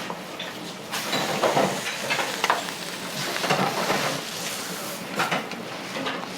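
Food sizzling on a hot iron griddle, with metal spatulas scraping and clinking against the plate several times.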